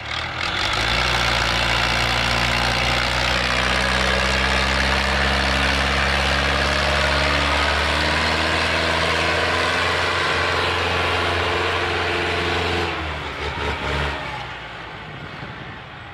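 Tractor diesel engine revved up and held at high revs under load for about twelve seconds, then dropping back near the end.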